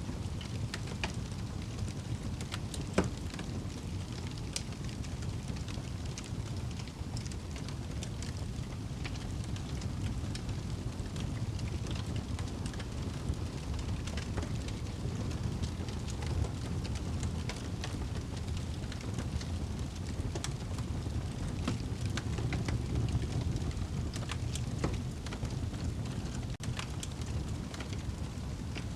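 Wood fire burning in a fireplace: a steady low rush of flames with scattered sharp crackles and pops, one louder pop about three seconds in.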